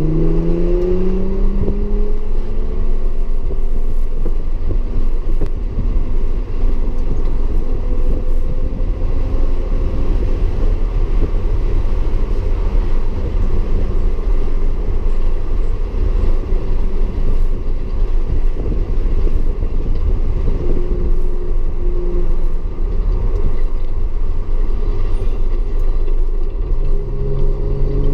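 Audi S4 engine and road noise at speed on track. The engine note climbs in pitch at the start and again near the end, with a steady, loud rumble in between.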